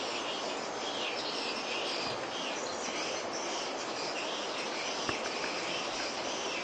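Swiftlets twittering: dense runs of high, insect-like chirps repeating over a steady hiss, the kind of call used to lure swiftlets to a nesting house.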